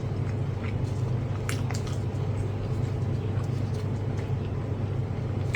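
Chewing food with faint wet mouth clicks, over a steady low hum.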